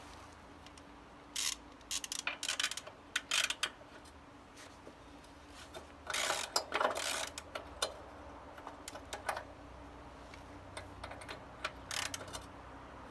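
Several short bursts of metallic clicking and clatter from a wrench being worked on the rear-axle belt adjusters of a Harley-Davidson Street 500, turned counterclockwise to slacken the drive belt.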